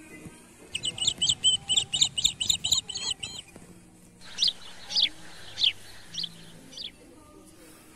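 Small birds calling: a quick run of about ten sharp, high chirps, then a handful of separate down-slurred notes.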